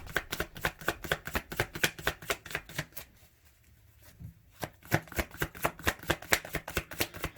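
A Rider-Waite tarot deck being shuffled by hand: a rapid run of card flicks, about eight a second, that stops for a second or so in the middle and then resumes.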